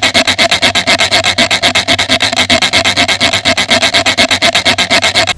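Rapid, even rasping strokes, about ten a second, of something being rubbed back and forth; they cut off suddenly at the end.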